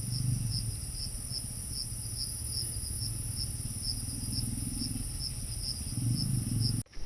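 Forest insects calling: a steady high-pitched drone with a chirp repeating about two to three times a second over a low rumble. It cuts off abruptly near the end.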